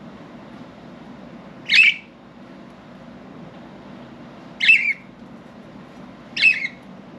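Budgerigar giving three short, loud squawking calls a couple of seconds apart, over a steady low background hum.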